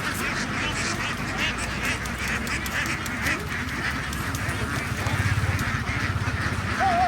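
A large flock of domestic ducks quacking, many calls overlapping without a break. A low throbbing hum joins about five seconds in.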